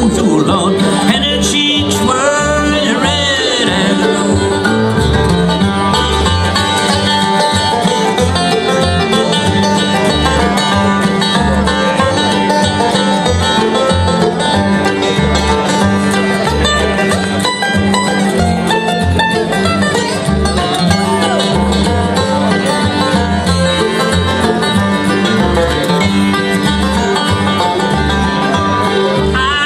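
Bluegrass band playing live, the banjo prominent over guitar, with a steady driving beat.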